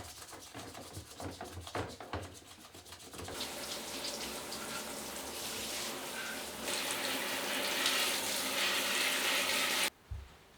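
Running water: a few knocks and clicks of handling, then a steady rush of water that gets louder about seven seconds in and cuts off abruptly near the end.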